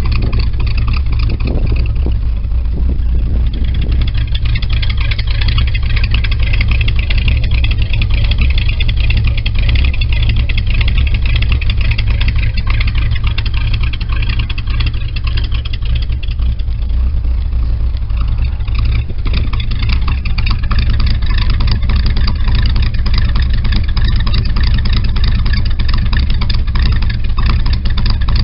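1968 Cadillac's 472 V8 idling steadily and low on the choke just after a cold start. The owner blames the poor choke idle on a carburetor that needs to be gone through.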